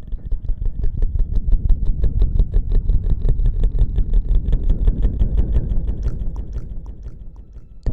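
Fast, even scrubbing strokes rubbed close against a microphone, about eight a second and heavy in the low end, easing off a little near the end: a close-miked ASMR hair-washing or rustling sound.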